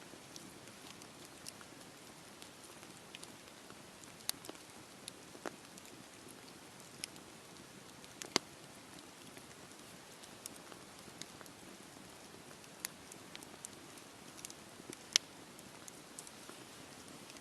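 Wood fire burning in a fireplace: a soft steady hiss with scattered irregular crackles and pops, two of them sharper and louder, one about halfway through and one near the end.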